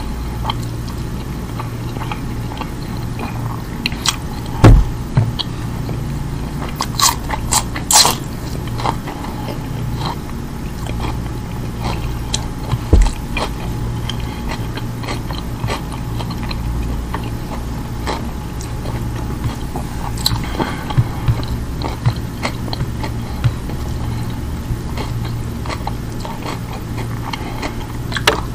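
Close-miked eating sounds: chewing and biting on roast lamb and rice eaten by hand, with scattered sharp clicks and knocks, the loudest about five, eight and thirteen seconds in, over a steady low hum.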